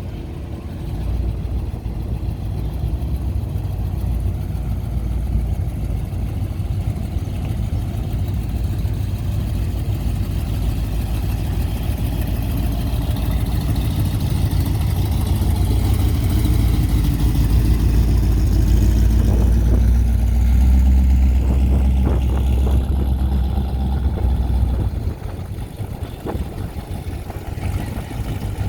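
Car engine running at low revs with a deep rumble as a vehicle drives slowly by, growing louder to a peak about twenty seconds in, then easing off.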